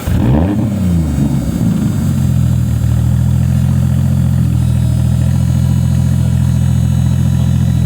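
Turbocharged Toyota 2JZ straight-six, just started, flaring up in revs and dropping back within the first two seconds, then settling into a steady idle.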